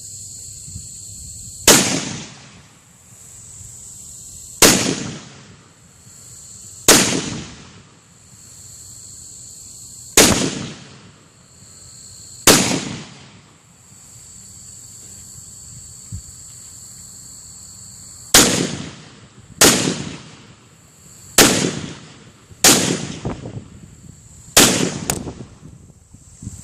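Zastava PAP M92 AK pistol in 7.62x39 firing about a dozen single shots: five spaced two to three seconds apart, then after a pause a quicker string of about seven, each shot loud and sharp with a short echoing tail.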